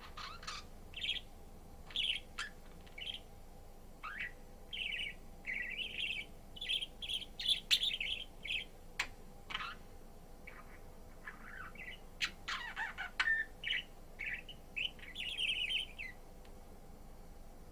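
A budgerigar chirping and warbling in a run of quick, short, high notes, thinning out briefly about ten seconds in and stopping about sixteen seconds in.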